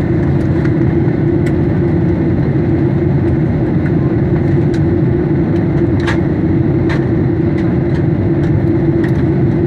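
Steady cabin noise inside a Boeing 737 in flight: the engines' drone and rushing air, with a constant low hum and a few faint clicks.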